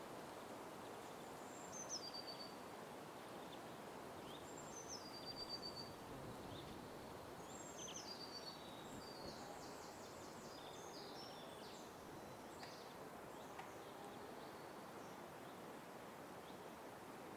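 Wild birds calling over a steady low background hum. Three clear whistled calls a few seconds apart each drop in pitch and then hold a note, and fainter chirps and twitters follow later.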